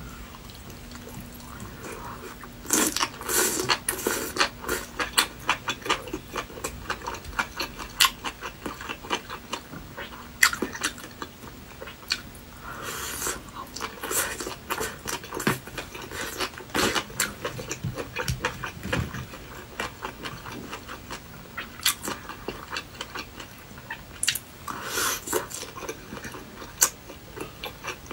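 Close-up chewing and biting of saucy skewered food, meat-wrapped enoki mushrooms: wet mouth sounds with many sharp crunchy clicks, heavier bouts about 3 seconds, 13 seconds and 25 seconds in.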